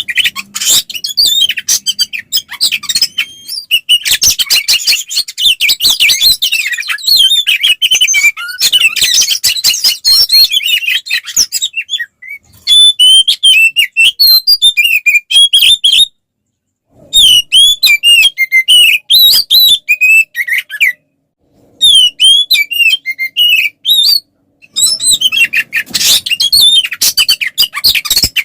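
Oriental magpie-robin (kacer) singing a loud, full, aggressive song of rapid chirps, trills and whistles: the fighting-mood song that kacer keepers play to provoke other magpie-robins into answering. The song cuts off into silence briefly a few times.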